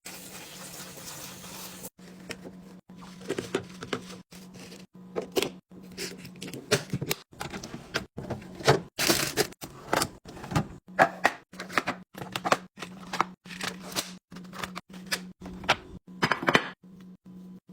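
Containers and items being set down and arranged in a refrigerator: an irregular run of taps, clicks and knocks of hard plastic and glass, over a steady low hum.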